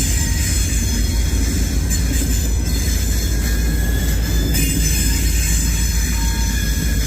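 Great Lakes Central freight train rolling past close by: a steady rumble of cars on the rails with a thin, high-pitched wheel squeal held throughout.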